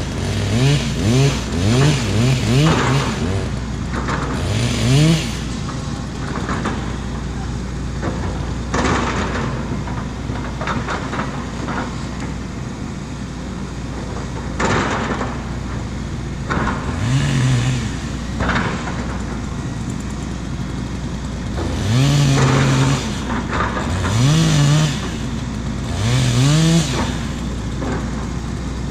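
John Deere 135 excavator's diesel engine revving up again and again as the hydraulics take load, with knocks and cracks from the digging in between.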